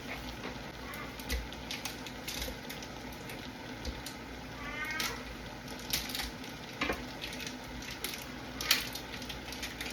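Kitchen clatter while cooking: a handful of sharp clicks and knocks, the loudest near the end, over a steady background hum. About five seconds in comes one short, rising high-pitched cry.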